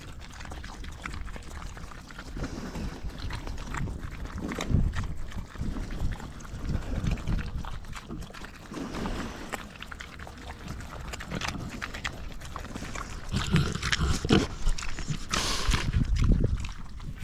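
Idaho Pasture Pigs and piglets munching and crunching grain feed, an irregular stream of chewing and snuffling sounds, with a brief louder burst of noise near the end.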